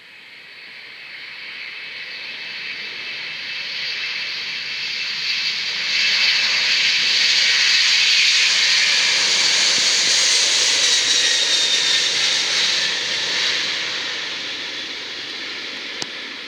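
Jet aircraft passing by: its engine rush and whine build over several seconds, stay loud through the middle, then fade, with a faint whine sliding down in pitch as it goes. A single sharp click near the end.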